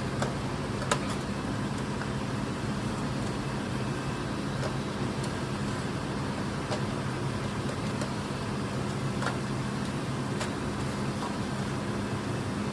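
A steady mechanical hum with a few sharp clicks, the loudest about a second in.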